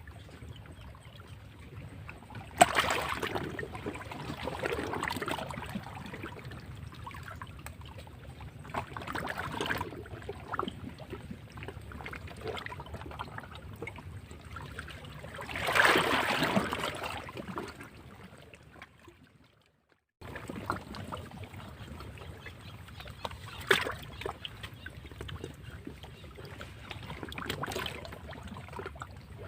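Sea waves breaking and washing against rocks, coming in surges every few seconds, with the biggest swell about sixteen seconds in. The sound fades and drops out completely for under a second just before twenty seconds in, then picks up again.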